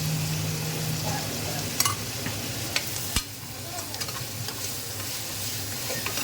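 Onions with ginger-garlic paste sizzling in oil and ghee in a pan as they are stirred, frying on their way to golden brown. A few sharp clicks of the spoon against the pan, around two and three seconds in.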